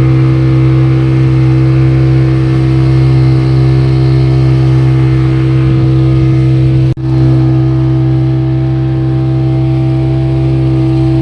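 Speedboat engine running steadily at speed, holding one even pitch. The sound drops out for an instant about seven seconds in.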